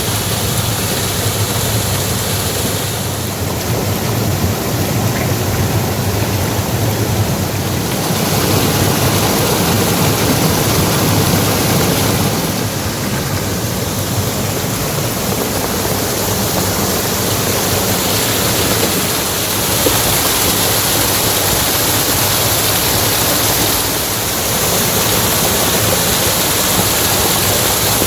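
Loud, steady rush of water, its tone and level shifting every few seconds.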